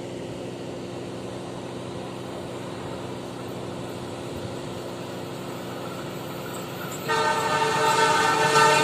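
A steady low mechanical hum, then about seven seconds in a train horn starts sounding, a loud chord of several steady tones that grows louder: the approaching Argo Bromo Anggrek express overtaking the stopped local train.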